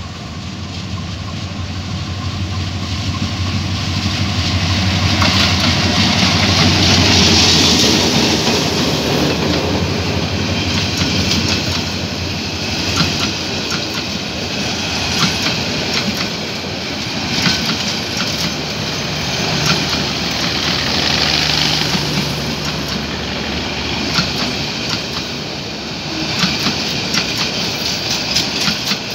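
A diesel locomotive hauling an intercity passenger train approaches and passes close by, its engine hum rising to a peak about seven seconds in. The coaches then roll past with a repeated clatter of wheels over the rail joints.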